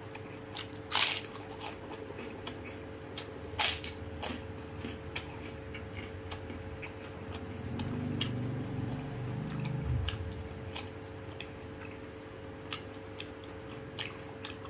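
A man chewing and smacking his lips over mouthfuls of rice and prawns eaten by hand, with a scatter of small wet mouth clicks and two sharper clicks in the first few seconds. A louder low sound lasts about two seconds past the middle, over a steady low hum.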